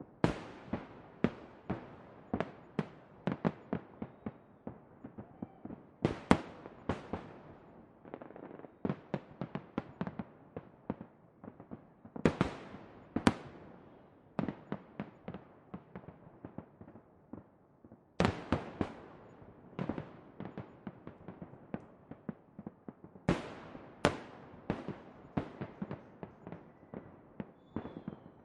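Fireworks going off in a dense, irregular run of sharp bangs, several a second, with a handful of louder, sharper cracks standing out through the barrage.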